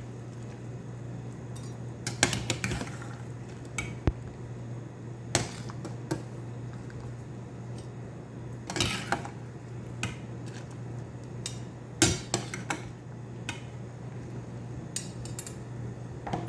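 Pots and metal utensils clinking and clattering in scattered short knocks as boiled cauliflower is drained, over a steady low hum.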